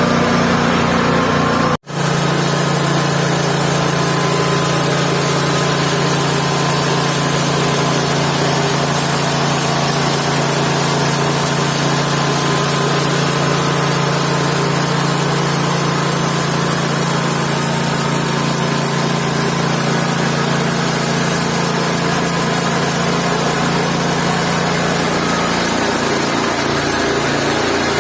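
Engine of a mobile band sawmill running steadily, with a brief cut-out about two seconds in and a shift in its pitch near the end.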